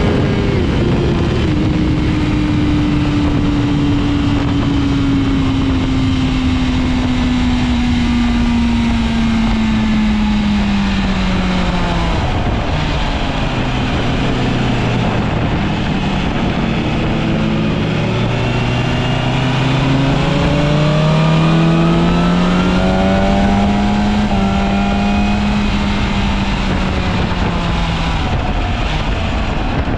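BMW S1000RR inline-four engine heard onboard under heavy wind rush. The revs fall steadily for the first dozen seconds as the bike slows from high speed, stay low for a few seconds, then climb again and hold before easing off near the end.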